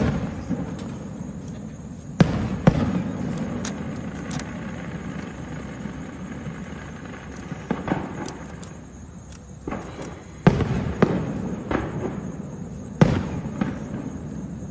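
Fireworks going off: loud bangs at the start, twice just after two seconds in, and again near ten and thirteen seconds, each trailing off in a low rumble, with scattered small crackles in between.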